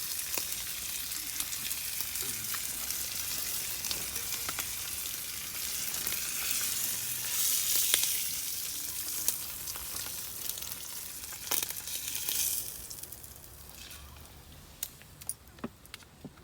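Hot-sandwich fillings frying in a pan: a steady sizzle with scattered clicks of a utensil. The sizzle dies down about three-quarters of the way through, leaving a few light clicks near the end.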